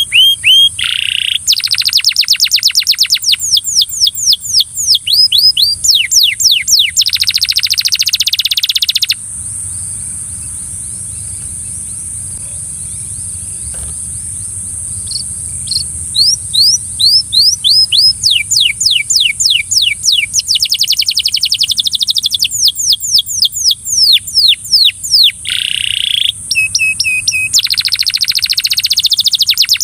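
Belgian canary singing loud phrases of rapid, repeated trilled notes. The song breaks off about nine seconds in, leaving a steady high hiss, and starts again some six seconds later.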